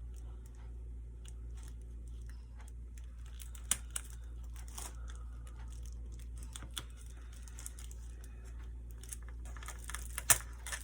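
A sticker and its backing being handled and pressed on by hand: faint crinkling and rustling with scattered small taps and clicks, a few sharper ones about four seconds in and near the end, over a steady low hum.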